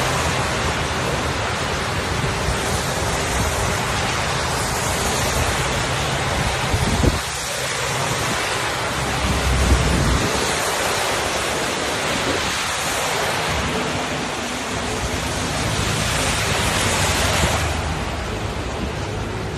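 Steady downpour of rain in a thunderstorm, with wind buffeting the microphone and giving a low rumble, and two brief low thuds about seven and ten seconds in.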